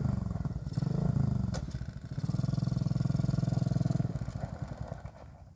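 110cc pit bike's single-cylinder four-stroke engine running under throttle, surging twice, then held steady for about two seconds before fading away near the end.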